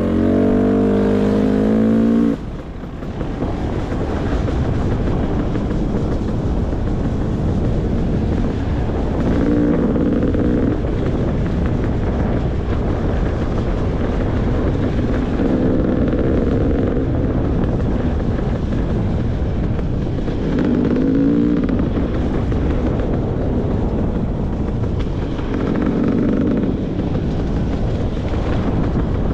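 Beta 300 RR two-stroke enduro dirt bike engine running on the move, rising in short bursts of revs about five times, roughly every five seconds.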